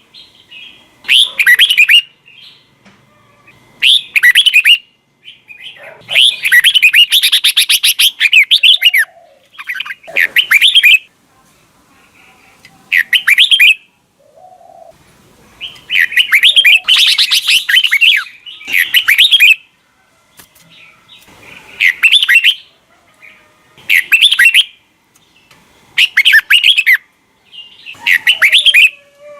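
Red-whiskered bulbul singing loud, repeated phrases of quick, chattering notes, a short phrase every two to three seconds, with two longer, denser runs. Between the phrases there are faint, lower warbling calls.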